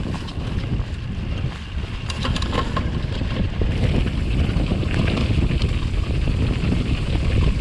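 Mountain bike rolling fast down a rough trail: wind buffeting the GoPro microphone over the rumble of tyres, with scattered clicks and rattles from the bike. It gets louder about two seconds in as the bike picks up speed.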